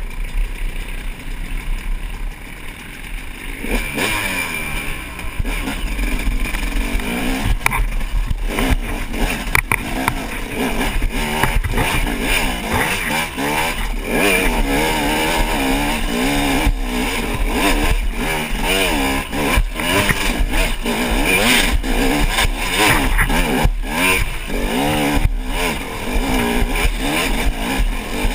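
250 cc two-stroke dirt bike engine revving up and down hard as the bike climbs, louder from about four seconds in, with scattered knocks and clatter from the bike over rough ground.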